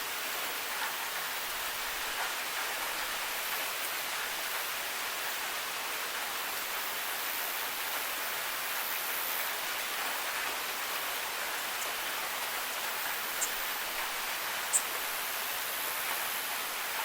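Steady rain falling, an even hiss, with a few sharp ticks of drops near the end.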